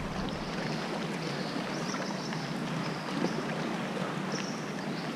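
Sea water washing and lapping steadily around a kayak inside a sea cave, with a faint high hiss that comes and goes.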